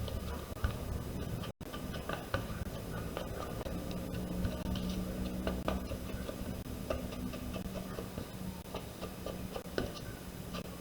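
Scattered light taps and clicks of paper and cardstock being handled and pressed, over a steady low hum; the sound drops out for an instant about one and a half seconds in.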